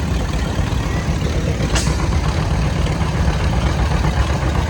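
Tractor engines running, a steady low engine sound, with one short sharp hiss or click about two seconds in.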